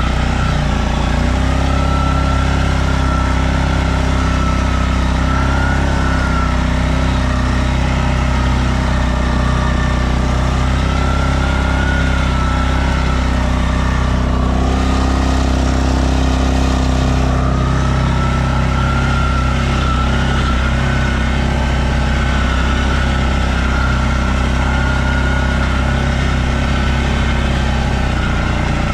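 Stels Leopard 650 ATV engine running steadily under load while riding through snow, with a whine that wavers slightly in pitch as the throttle changes.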